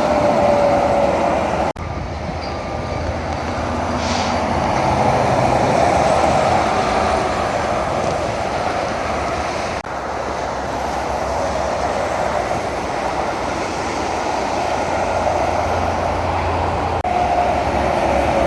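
Road noise of heavy trucks passing on a highway: steady tyre and engine roar with a slowly falling pitch as the trucks go by, broken by three very short gaps.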